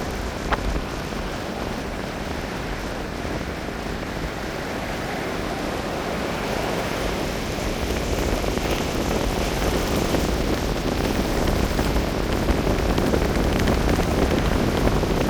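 Strong wind buffeting the microphone over the wash of sea surf on the shore, growing gradually louder in the second half.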